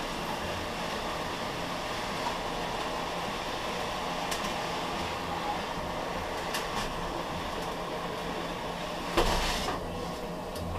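Steady rubbing hiss of a styrofoam insulation board being slid along a wooden jig past a clamped hot soldering iron that melts through it, with a louder scrape about nine seconds in.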